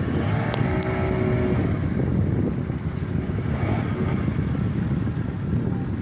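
Wind buffeting the microphone aboard a boat at sea: a steady, dense low rumble.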